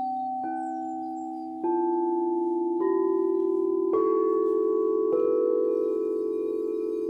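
Singing bowls struck one after another, five times about a second apart, each a step higher in pitch than the last, as in an ascending chakra scale. Each bowl rings on and overlaps the others into a lingering, gently pulsing chord.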